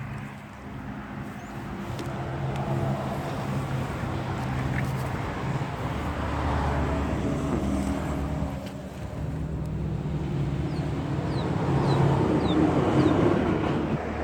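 A vehicle engine running steadily, growing louder after a few seconds, with a few short high chirps near the end.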